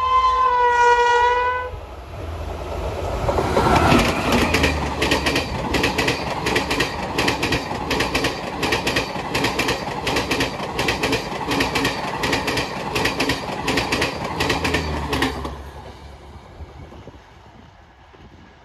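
Indian Railways electric locomotive's horn sounds once, briefly. Then a passenger express passes at speed, about 110 km/h, its coaches' wheels clattering rhythmically over the rail joints for about twelve seconds before the sound fades away.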